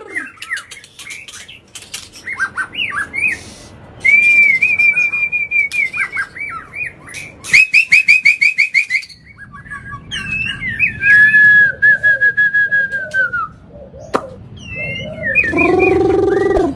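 White-rumped shama singing a varied, loud song of clear whistles and glides mixed with sharp clicks. It includes two long held notes and a fast run of about eight repeated notes a second in the middle, then a lower, fuller note near the end.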